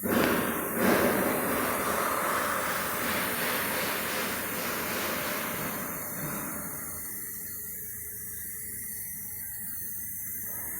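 GAZelle van engine starting up and running, loud for about six seconds and then settling to a quieter steady run, with no knocking.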